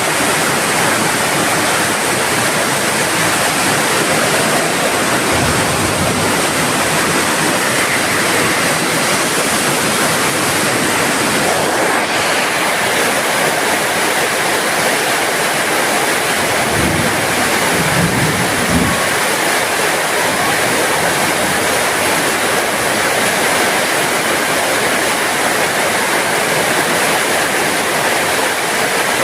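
Steady heavy rain falling, an even hiss of drops with no change in strength. A brief low rumble sounds a little past halfway.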